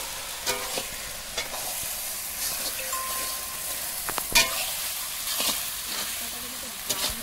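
Chicken sizzling as it is fried and stirred with masala in a pan (the kosha stage of a curry): a steady hiss with repeated scrapes and knocks of the stirring utensil against the pan, one sharp knock loudest about four seconds in.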